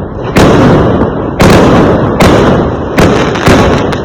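Fireworks exploding: five loud bangs in quick succession, each followed by a rumbling, crackling tail that dies away over about a second.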